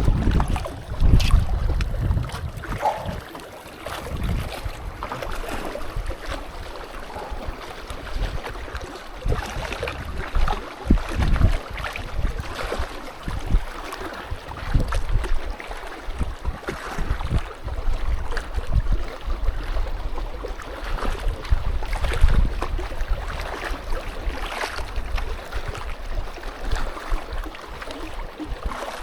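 Strong gusty wind buffeting the microphone, a rough rumble that swells and drops every second or two.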